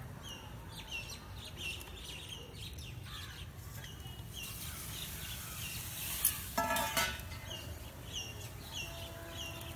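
A bird calling over and over in short falling chirps, about two a second. About six to seven seconds in, steel cookware clatters and rings briefly as the steamer is handled.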